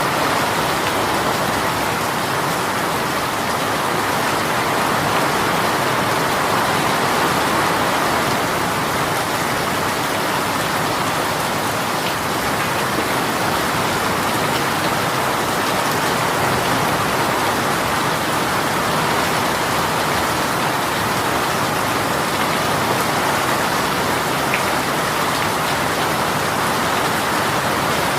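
Heavy rain shower falling steadily, a dense even patter of rain on surfaces.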